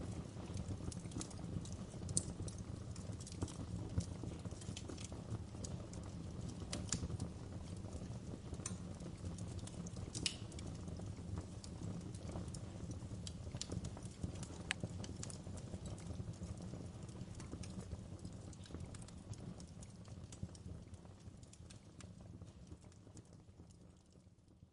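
Wood fire crackling: irregular sharp pops and snaps over a low, steady rumble of burning, fading out over the last few seconds.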